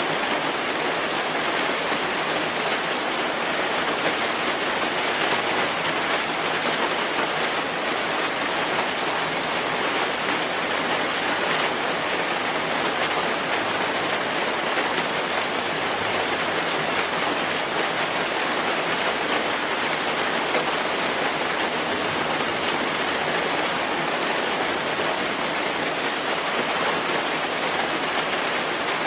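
Steady rainfall, an even hiss of rain falling on surfaces with no change in strength.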